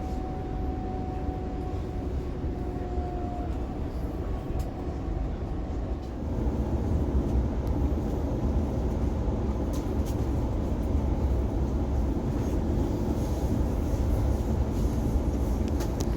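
NSW TrainLink Oscar H set electric train heard from inside a carriage while running: a steady low rumble of wheels on rail. A single steady whine sags slightly in pitch and stops about three seconds in. About six seconds in the rumble grows louder, with a few faint clicks later on.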